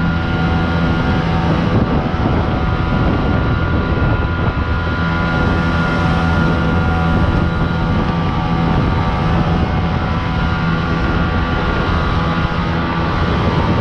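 Jet boat's engine running steadily under way, a constant drone with a few held higher tones over the rush of water and air.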